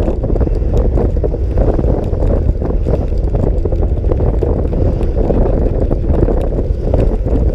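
Wind buffeting the microphone of a moving scooter, a steady low rumble.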